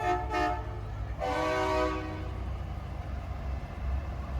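Semi-truck air horn sounding two short toots, then a longer blast about a second in, each a chord of several tones, over the steady low rumble of truck engines.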